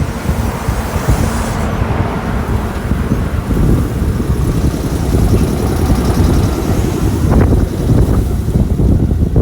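Kintetsu 15400 series train passing a level crossing at very low speed, a steady rumble mixed with heavy wind buffeting on the microphone. A single clank comes about seven seconds in.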